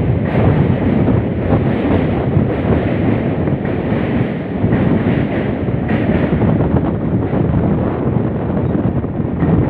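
Wind rushing over the microphone over the steady rumble of a running train.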